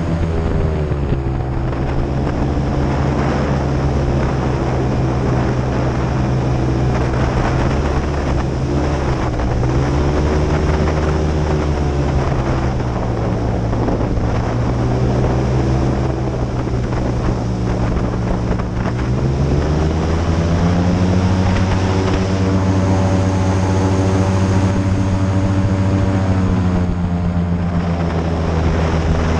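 Airboat's engine and open air propeller running under way. The engine note drops about a second in, lifts briefly around ten seconds, and climbs again around twenty seconds as the throttle changes.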